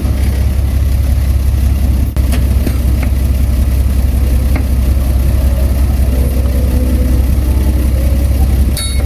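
Heavy diesel engine of earthmoving machinery running steadily with a deep rumble, with brief high-pitched squeaks near the end.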